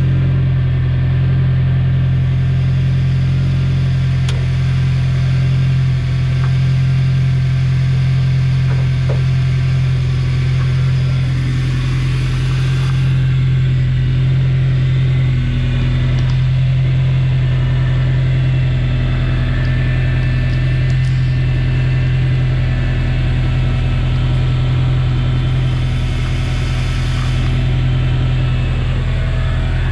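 1999 Toyota Hilux Surf's 2.7-litre four-cylinder petrol engine idling steadily, heard with the hood open.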